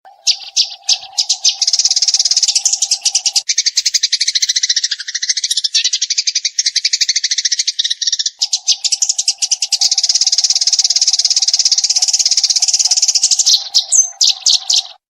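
Eurasian tree sparrow song: a rapid, continuous chattering trill of sharp high notes, dipping lower in pitch for a few seconds in the middle before returning, and cutting off abruptly near the end.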